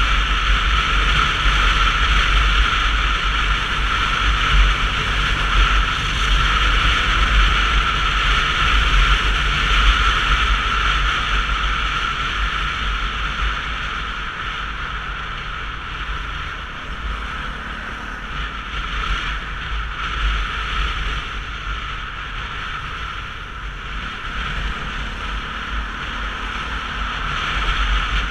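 Wind buffeting the camera's microphone, with road noise, while riding a Sinnis Terrain 125cc motorcycle: a steady, heavy rumble and hiss that dies down somewhat about halfway through and builds again near the end.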